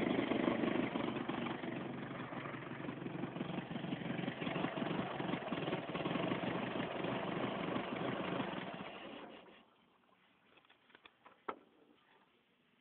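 Chevrolet Opala engine running with a fast, even pulsing exhaust note, then switched off about nine seconds in. A few faint clicks follow.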